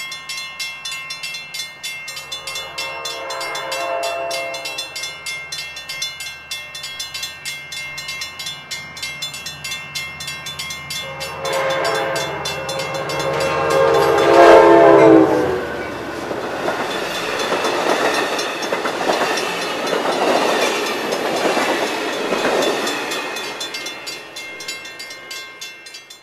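Amtrak Pacific Surfliner passenger train approaching a grade crossing, its horn sounding a couple of seconds in and again, longer and louder, about eleven seconds in. The train then rolls through with wheels rumbling and clacking, fading toward the end. A grade crossing bell rings in even strokes throughout.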